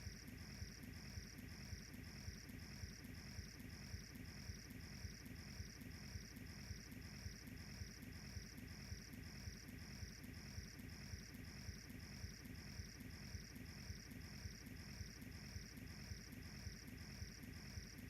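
Cricket chirping steadily at about two and a half high chirps a second, over the faint low crackle of a wood fire.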